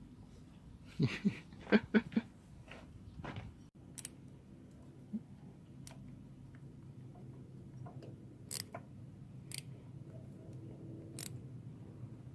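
Metal engine parts and hand tools clicking and knocking as they are handled during engine assembly: a quick run of sharp knocks about a second in, then single clicks every second or two over a faint low hum.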